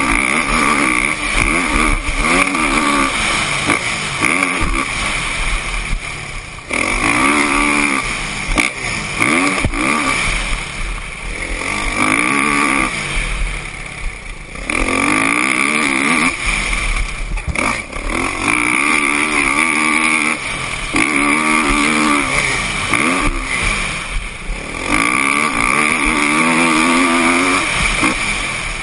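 Kawasaki KX450F motocross bike's single-cylinder four-stroke engine revving up and down over and over, its pitch climbing and dropping every few seconds as the throttle is opened and closed.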